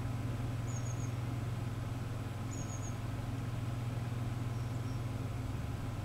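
Long-tailed tits giving high, thin calls in quick runs of three notes, about a second in and again near three seconds, with fainter single notes later. A steady low hum runs underneath and is the loudest sound.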